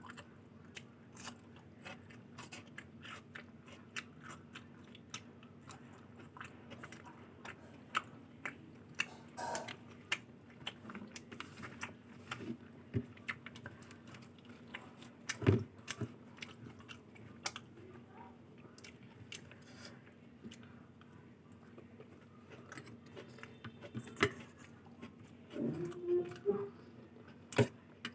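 Close-miked eating of luchi with ghughni and aloor dum: chewing and biting with many small, sharp mouth clicks throughout. One louder knock comes about halfway through, and a short pitched throat sound comes near the end.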